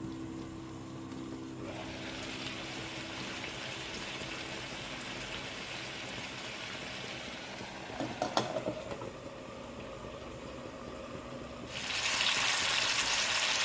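Chicken curry sizzling and bubbling in a pan as a steady hiss, with a few sharp clinks of a cooking utensil about eight seconds in. The hiss grows louder near the end.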